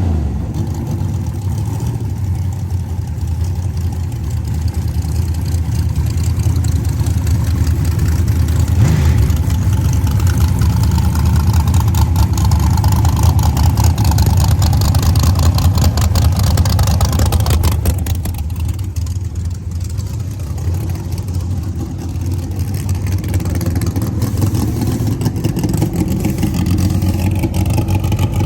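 A race car engine running at a steady, lumpy idle with a deep rumble. It grows louder partway through and drops back about two-thirds of the way in.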